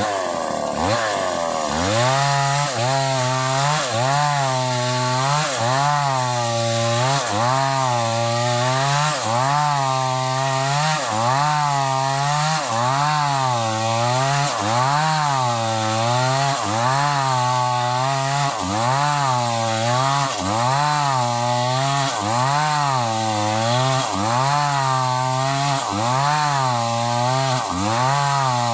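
Sumura CS6500S two-stroke chainsaw cutting old wood under heavy load. The engine pitch dips and recovers about once a second as the chain works through the cut, and the engine sounds strained.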